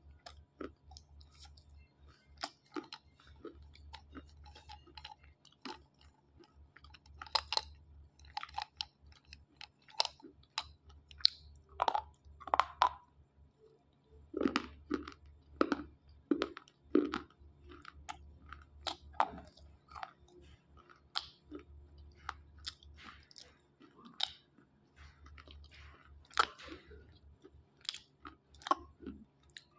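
Dry slate pencils being bitten and chewed: irregular sharp crunches and gritty grinding, with a louder, denser run of crunches about halfway through.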